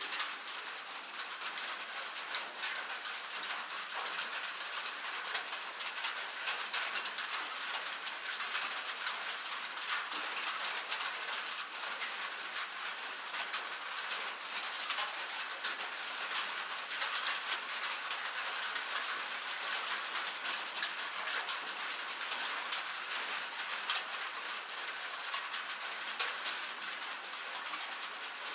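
Rain falling steadily on a metal roof: a dense, even patter of many fine, sharp drop ticks, thin and bright with no low rumble.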